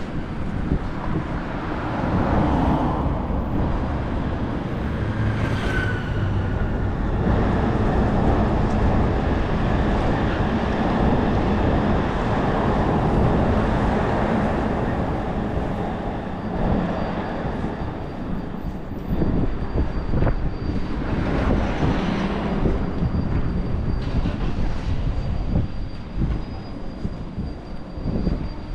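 Wind buffeting the microphone over a steady low rumble of city noise, with a faint high whine running through the second half.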